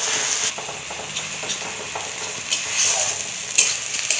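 Onions and ginger-garlic paste sizzling in hot oil in a kadai, stirred with a metal spatula that scrapes and clinks against the pan, with a few sharp clinks near the end.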